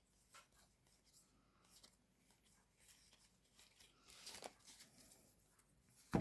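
Near silence with faint, brief rustles of trading cards being handled, a slightly longer rustle about four seconds in and a sharp tap near the end.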